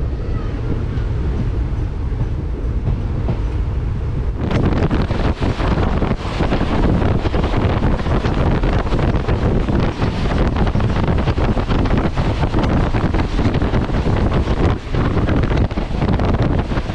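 Express passenger train running at speed, heard from on board: a low rumble of wheels on rail, then about four and a half seconds in a suddenly louder rush of rail clatter and wind on the microphone.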